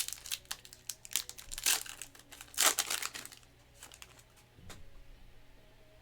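Plastic wrapper crinkling and rustling in quick crackles as trading-card packaging is handled. The crackles are loudest in the first three seconds and thin out after.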